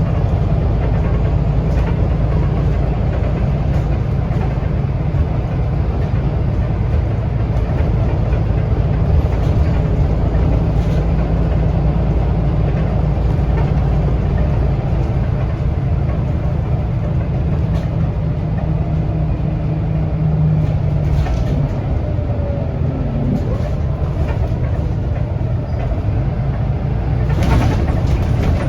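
Scania L94UB city bus in motion, heard from on board: its diesel engine and ZF automatic transmission run steadily, with the engine note changing about two-thirds of the way through. A short burst of noise comes near the end.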